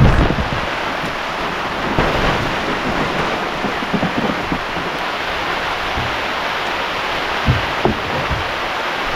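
Heavy rain falling in a steady downpour, with a few soft low thumps now and then.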